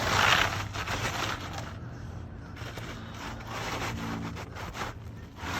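Asphalt roof shingle scraping and rubbing against the surrounding shingles as it is worked into place: loudest in the first half second, then a run of shorter, softer scrapes.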